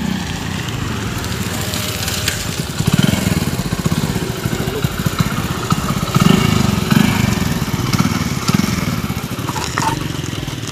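Hero Honda motorcycle's single-cylinder four-stroke engine running on an LPG conversion kit, its revs swelling and dropping back several times with the throttle. It runs smoothly on gas.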